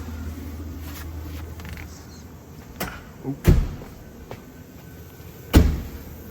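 Two loud, heavy thumps about two seconds apart, with lighter knocks just before the first, like doors or panels being shut. A low steady hum fades out in the first second or two.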